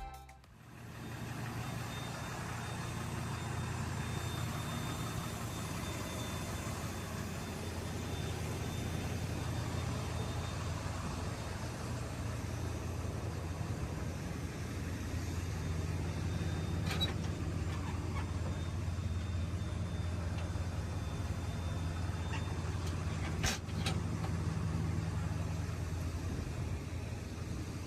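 An engine running steadily at idle, a low, even hum. Two brief sharp clicks come through, one past the middle and one later on.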